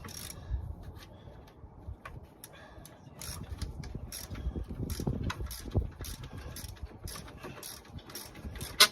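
A hand ratchet and metal parts clicking, scraping and knocking in irregular bursts as a 10 mm bolt is worked loose, with one sharp clack near the end.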